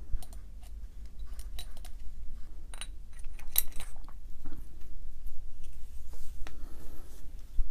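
Light metallic clicks and clinks of small rotary-hammer parts being handled and fitted, as a greased thrust bearing goes onto its shaft, over a low steady hum.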